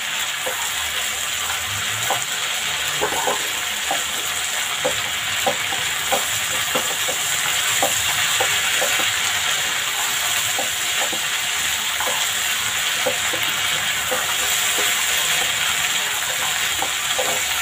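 Black chickpeas in tomato-onion masala sizzling in a kadhai while a spatula stirs them, with a steady hiss and frequent short clicks of the spatula scraping and knocking the pan.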